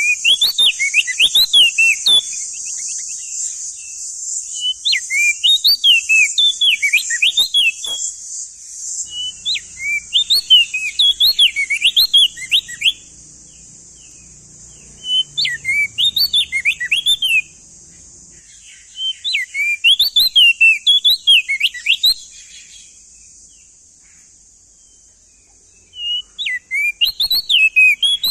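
Male crested darkeye (opior jambul) singing: repeated phrases of about two seconds, each a rapid string of rising and falling whistled notes, with short pauses between phrases. A steady high hiss runs underneath and is stronger in the first few phrases.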